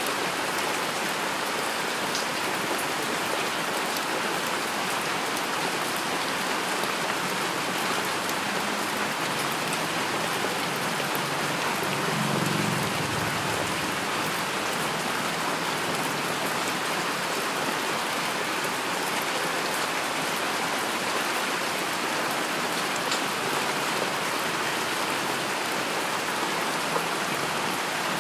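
Steady heavy rainfall, an even hiss of many drops with no gaps. A brief low rumble swells under it about halfway through.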